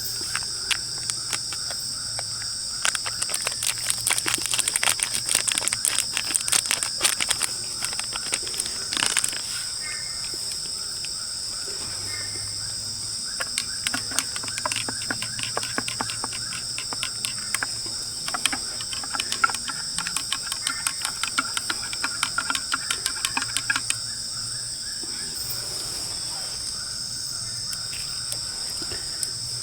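Night forest insects, crickets among them, trilling steadily at two high pitches. Over this come long runs of sharp, rapid clicks and crackles, in two spells of several seconds each.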